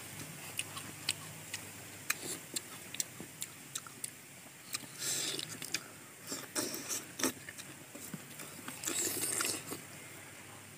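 Raw star fruit being bitten and chewed close to the microphone: a run of sharp, irregular crisp clicks with a few short, wetter crunching spells.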